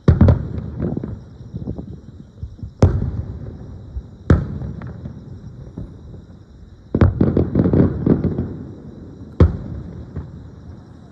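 Aerial fireworks bursting: single loud booms a second or more apart, with flurries of rapid crackling pops at the start and again about seven seconds in.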